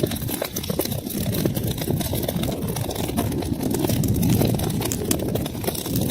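Wood fire burning in a fireplace: a steady low rumble of flames with many small, sharp crackles and pops.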